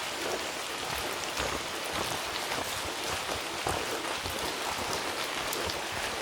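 Steady rain: an even hiss with many separate drop hits scattered throughout.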